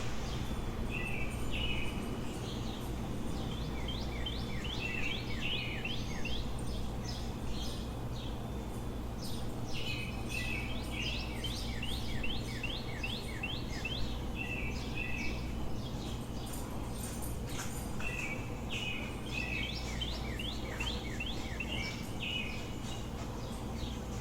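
Songbirds singing in repeated bouts of quick, downward-sliding chirps over a steady low city rumble.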